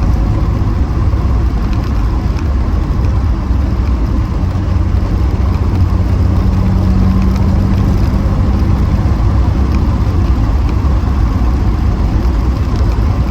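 Reliant Scimitar GTE SE5a's Ford Essex V6 engine running steadily under way, with tyre and road noise, heard from inside the cabin. A low, even drone, not particularly quiet.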